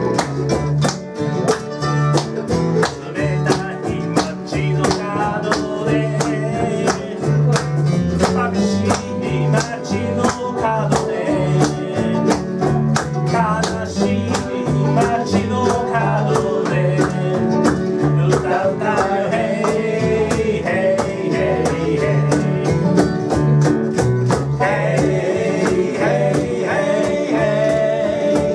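Live acoustic music: a guitar strummed to a steady beat, with a voice singing over it.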